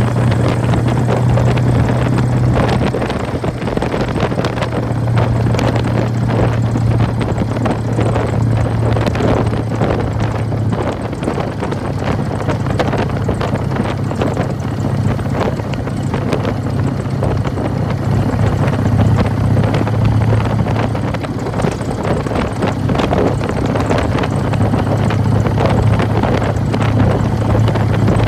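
1999 Harley-Davidson Fat Boy's Evolution V-twin running under way through Python mufflers, its note shifting a little with the throttle, with the clattering rattle of the open primary drive.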